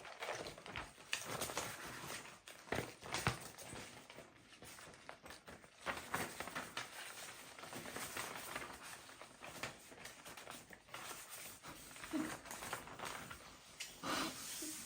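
Irregular rustling and scratching noises, many short scrapes and taps in quick succession.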